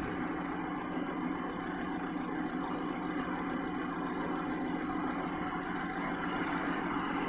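Hyundai Theta II inline-four petrol engine (G4KE/G4KD) being test-run, running steadily at an even speed.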